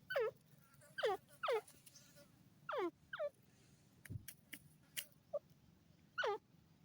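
A francolin (desi teetar) calling: six short notes, each sliding quickly down in pitch, mostly in quick pairs. A few sharp clicks and a soft low thump come about four to five seconds in.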